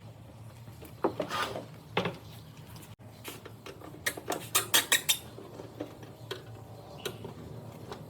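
Irregular clinking, knocking and scraping of metal parts and hand tools being handled, with a quick run of sharp clicks about halfway through.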